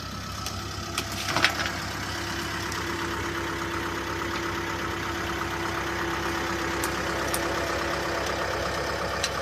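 An engine idling steadily, with a few sharp metallic clicks about a second in and again near the end, and a steady whine joining in after about two seconds.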